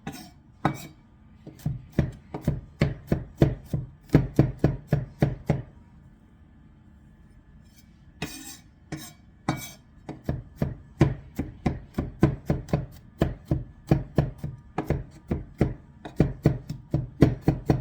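Knife chopping garlic fine on a cutting board, quick steady strokes about three a second. The chopping pauses for a couple of seconds midway, then resumes.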